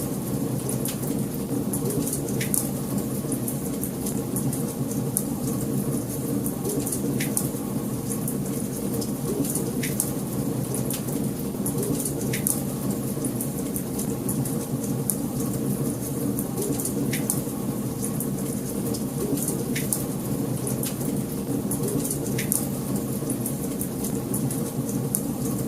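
Wood fire crackling in a fireplace: a steady low rush of burning with sharp pops scattered through it.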